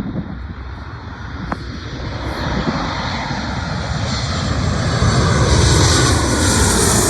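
Boeing 737 jet airliner passing low on its landing approach, its engine noise growing louder to a peak near the end, with a whine that falls in pitch as it goes by.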